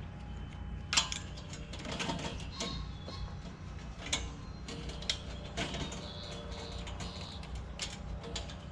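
Scattered light clicks and taps of nuts, screws and galvanized steel panels being handled during assembly of a metal raised garden bed.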